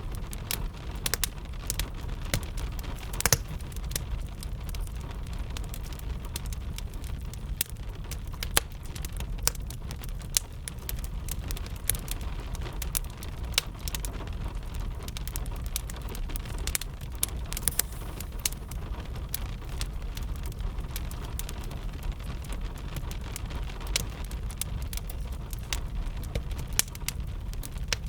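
Wood fire crackling with irregular sharp pops, over a steady rain.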